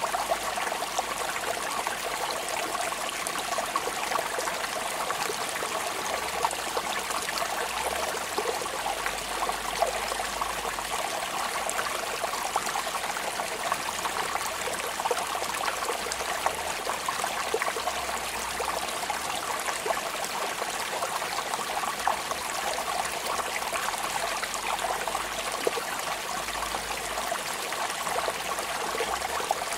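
Steady rain: a constant hiss of falling water thick with small, fast drop ticks, with no change in level.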